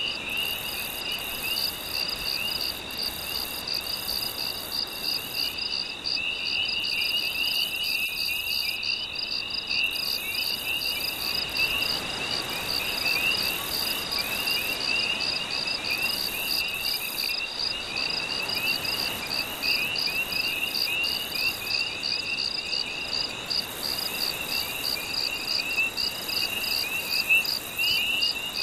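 Night ambience: crickets chirping in a steady high pulsing trill, with repeated short falling chirps from other night creatures, over a soft even wash of gentle sea waves.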